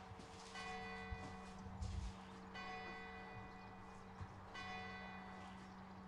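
A bell tolling faintly, struck about every two seconds, each stroke ringing on and fading, over a steady low hum. A couple of dull thumps come about two seconds in.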